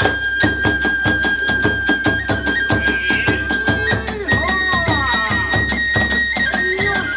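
Kagura hayashi ensemble playing: a bamboo flute holds a high, piercing note that steps up and down in pitch, over fast, steady strokes of drum and small hand cymbals.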